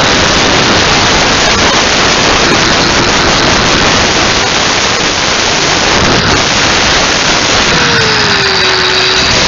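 A handheld power tool, likely a grinder, runs continuously with a loud, steady rushing noise while working away the old windshield seal. A faint whine drops in pitch near the end as the tool's load changes.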